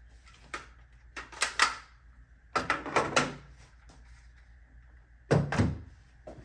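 Hard clacks and knocks of a rifle being handled, in four short groups, the last with a heavier thud.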